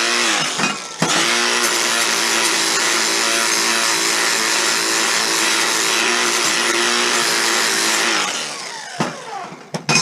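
Electric grinder running against metal, its pitch dipping briefly near the start and picking back up. About eight seconds in it is switched off and spins down, followed by a couple of metallic clinks.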